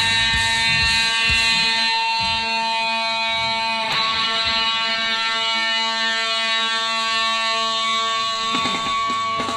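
Electric guitar played through an effects pedal board: a chord held with long sustain, a new chord struck about four seconds in and left ringing, then fresh picked notes near the end.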